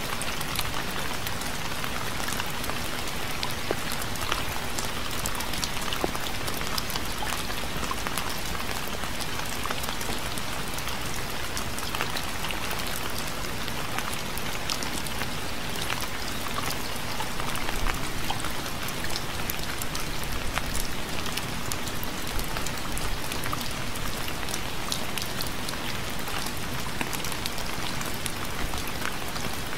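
Steady rain falling, with many small drops pattering and ticking on a surface; no thunder.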